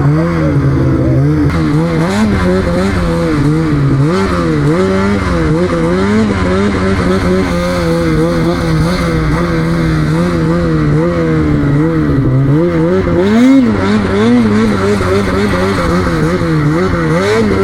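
Snowmobile engine running under a constantly worked throttle, its pitch rising and falling every second or so, with a bigger rev about three-quarters of the way through.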